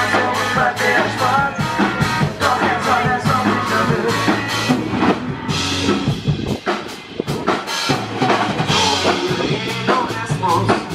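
Loud band music with a drum kit beating a steady rhythm, bass, and singing.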